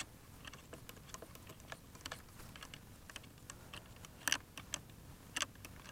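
Light, irregular clicks and taps close by, with a couple of sharper ones past the middle and near the end.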